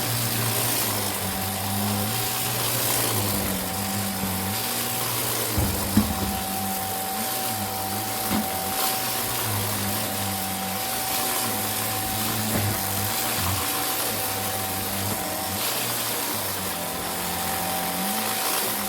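Vacuum cleaner running steadily: a constant motor whine over rushing air, with the lower hum rising and falling as the nozzle is worked back and forth. A few light knocks about six and eight seconds in.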